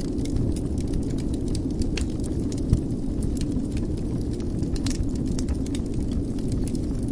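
Wood fire in a fireplace crackling: scattered sharp pops and snaps over a steady low rumble, with one louder pop nearly three seconds in.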